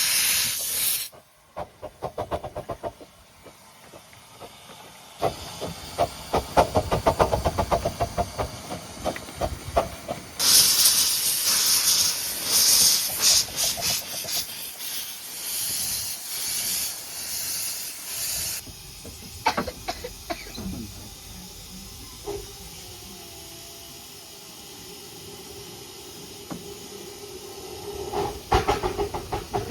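Steam locomotive slipping its wheels: runs of rapid, evenly spaced exhaust chuffs over loud steam hiss, in several bursts that start and stop abruptly.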